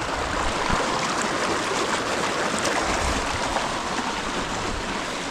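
A small river running over stones, a steady rush and trickle of flowing water.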